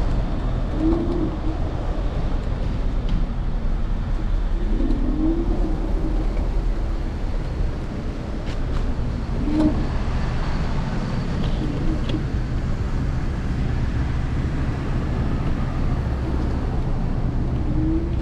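City street traffic noise heard from a moving electric scooter, with a steady low rumble of road and wind noise on the handlebar-mounted camera. A few brief faint tones and clicks sit over it.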